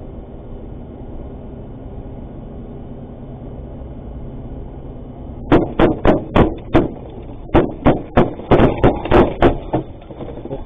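Steady engine and road noise heard from inside a vehicle cab, then, about five and a half seconds in, a rapid, irregular run of about fifteen loud, sharp bangs over some four seconds.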